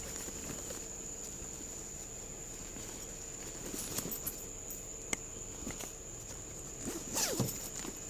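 Rustling, brushing and small clicks close to a body-worn camera's microphone, with a louder rustle about seven seconds in, over a steady high whine.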